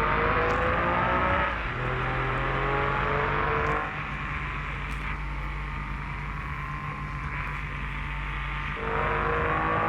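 Mitsubishi L300's engine pulling under acceleration, its pitch rising, dropping at a gear change, and rising again. It then eases off to a lower, quieter steady run for about five seconds before it picks up and climbs again near the end, over a constant low road hum.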